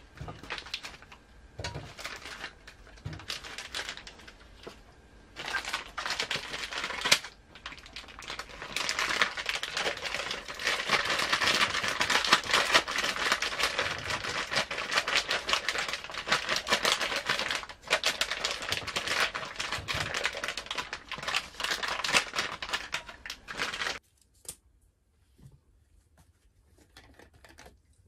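Bacon and sausages sizzling in a metal pot: a dense crackle that builds over the first several seconds and cuts off suddenly about 24 seconds in.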